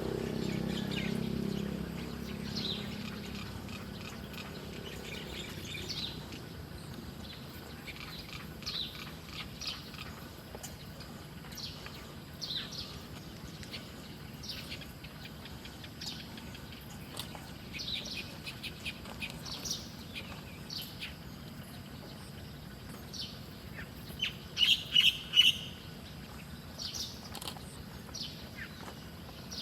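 Small wild birds chirping: short, high calls scattered throughout, with a louder run of chirps near the end. A low rumble fades away over the first few seconds.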